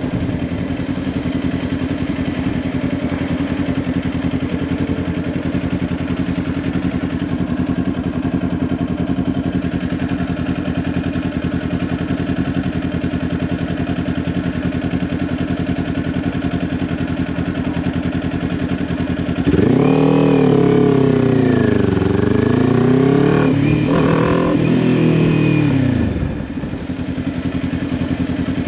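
Kawasaki Ninja 400's parallel-twin engine through a Leo Vince LV10 slip-on exhaust, holding a steady low note. About twenty seconds in it revs up louder, its pitch rising and falling for about six seconds, then it settles back to the steady note.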